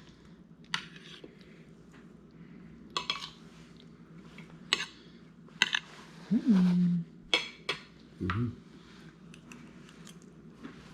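Utensils clinking against dishes while eating, with about half a dozen sharp, separate clinks spread out. About two-thirds of the way through comes a brief hummed 'mm' from a person.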